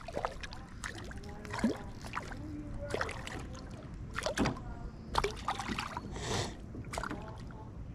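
Knocks on a kayak and light splashing of water as a small bass is brought alongside, with a brief splash about six seconds in.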